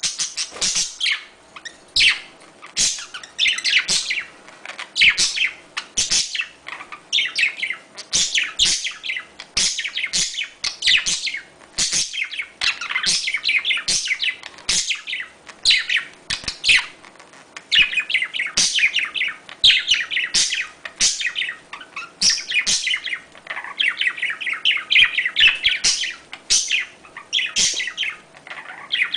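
Budgerigars chirping and warbling continuously in rapid, closely packed chatter: the courtship and mating calls of budgies.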